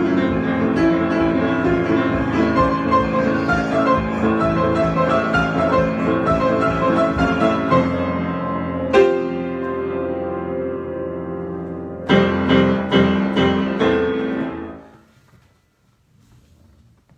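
Solo piano improvisation: a busy run of notes, then a single chord struck about nine seconds in and left to ring. A few struck chords follow around twelve seconds in, and the final chord dies away to silence.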